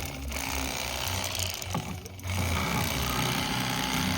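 A motor running steadily with a low hum, easing off briefly about two seconds in and then picking up again.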